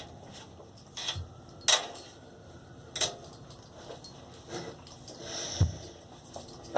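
A few scattered taps and knocks in a small tiled bathroom, with a brief rustle about five seconds in, as a dog and a person shift about at the edge of a bathtub.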